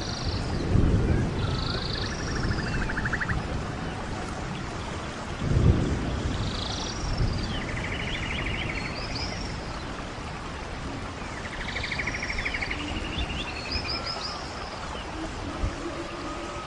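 Rainforest ambience: an animal call repeats about every five seconds, each time a couple of short arched high notes and then a fast buzzy trill. Beneath it runs a low rumbling noise that swells about a second in and again near six seconds.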